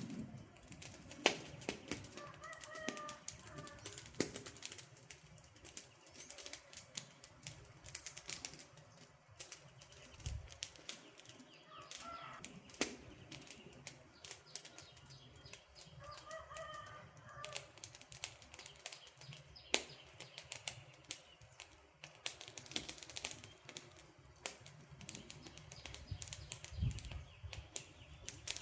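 Wood campfire crackling, with frequent sharp pops and snaps. A bird gives short calls a few times in the background.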